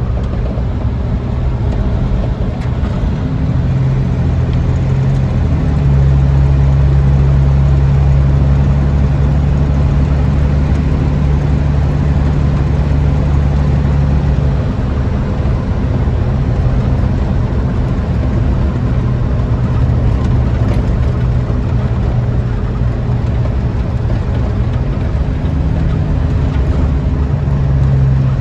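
Chevy 4.3 V6 in a truck on the road, running steadily under way with road noise. The engine note gets louder and heavier about six seconds in, holds for about eight seconds, then eases back.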